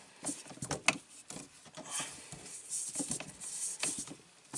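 Scattered light clicks, taps and rustles of objects being handled, irregular and close to the microphone.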